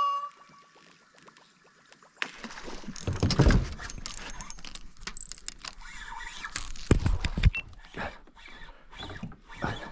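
Fishing gear being rattled and handled in a kayak, with irregular clatter and several dull knocks against the hull, the loudest about three and a half and seven seconds in.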